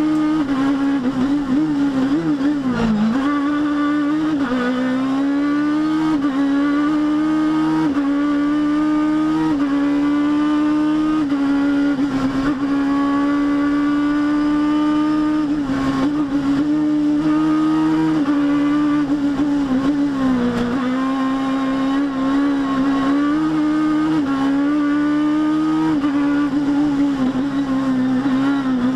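Rally kit car engine running hard at high revs, its pitch climbing in short stretches with brief dips every second or two as the driver changes gear and lifts. There are two deeper drops, one early on and one about two-thirds through.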